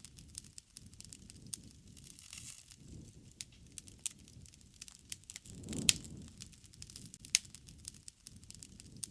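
Wood campfire crackling: sharp pops and snaps at irregular intervals, the loudest about six and seven and a half seconds in, over a soft low rush of flame that swells now and then.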